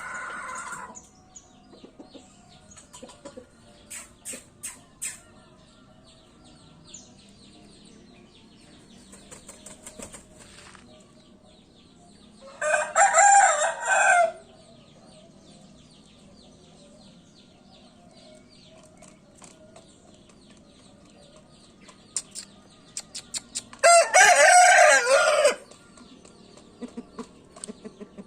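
A Bangkok gamecock crows twice, about eleven seconds apart, each crow lasting about a second and a half. Faint clicks and ticks sound in between.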